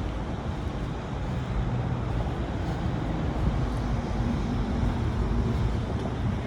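Road traffic noise: a steady low rumble of passing vehicles with an engine hum, a little louder from about two seconds in.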